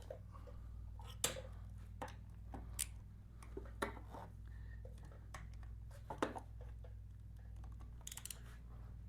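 Scattered light clicks and taps of hand tools working the bolts and a small cover on a motorcycle's battery compartment, with a quick run of small ticks near the end, over a steady low hum.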